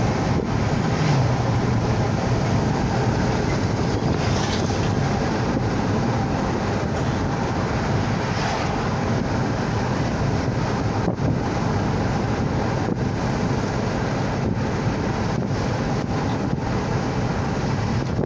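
Steady rushing noise with a low rumble underneath, like wind buffeting the microphone, holding at one level throughout.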